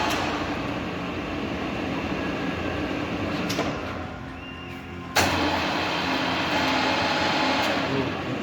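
FSS315 router (фрезер) running with a steady mechanical whir. The sound eases off about four seconds in and comes back abruptly with a sharp click about a second later.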